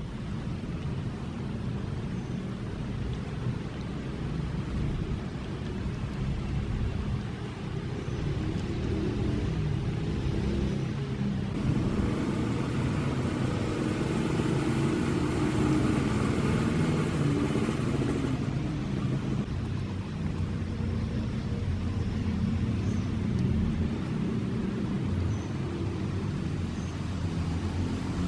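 Street traffic rumbling steadily, with one vehicle passing close by about halfway through, growing louder and then fading.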